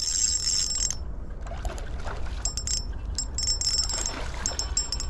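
Insects trilling high-pitched, steady at first and then in on-off pulses, over a low rumble of wind or handling noise on the microphone.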